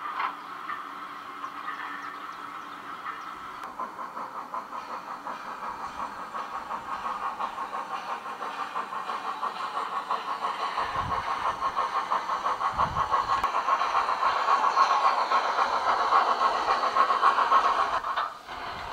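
Garden-scale model train running on its track, a fast, even rhythmic beat that grows steadily louder as it approaches, then breaks off suddenly near the end.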